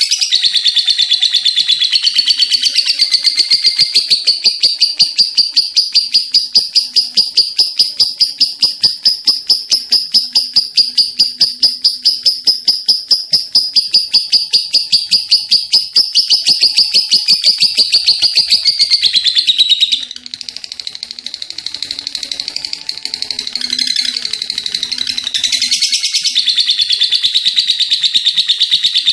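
Lovebird in full song giving its long 'ngekek' trill: a loud, rapid run of high chattering notes, about four a second, held for some twenty seconds. It breaks into softer chatter, then picks up again near the end.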